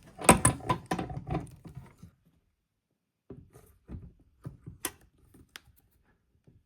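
Clicks and knocks of metal tools and small parts being handled while working a seized Gaggia Classic solenoid part in a bench vise. A busy run of clicks over the first two seconds, a short silence, then a few scattered single knocks.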